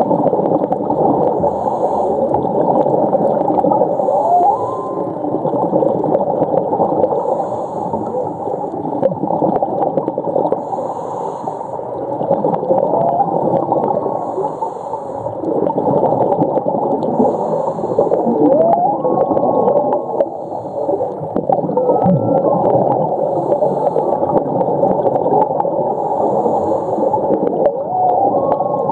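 Humpback whale song heard underwater: short whining calls that rise and fall in pitch, a few seconds apart, over a dense crackling hiss.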